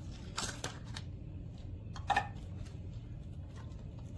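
Ice cubes being added to freshly brewed coffee: scattered clinks and knocks, the brightest, ringing clink about two seconds in.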